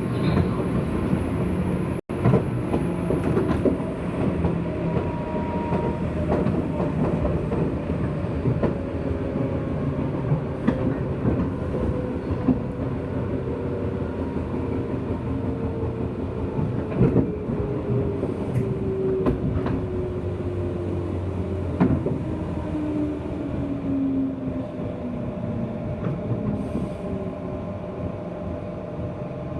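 JR West 201 series electric train motor car running, heard inside the car, with occasional clicks of the wheels over rail joints. From about eight seconds in, the traction motors' whine falls steadily in pitch as the train slows.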